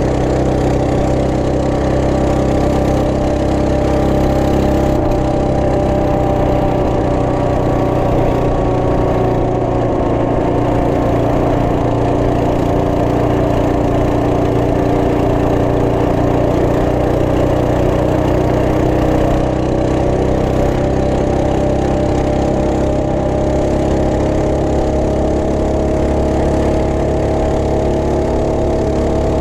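Trail Master MB200 minibike's Ace Up 212cc single-cylinder four-stroke engine running steadily under way. Its pitch sags a little midway, then climbs slowly near the end.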